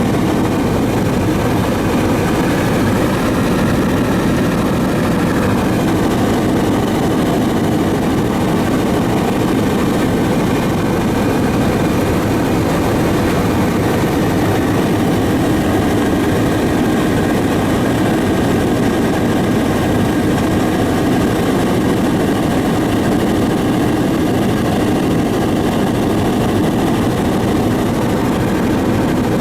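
Aircraft engine droning steadily in flight, an even, unchanging noise heard from on board.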